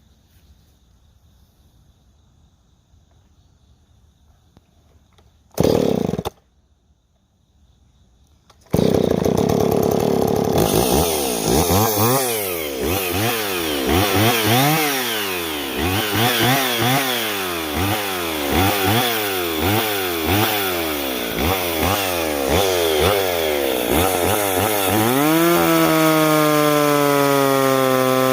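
McCulloch two-stroke chainsaw firing briefly once, then starting a few seconds later. It is revved up and down repeatedly, about once a second, and near the end holds a steady high run.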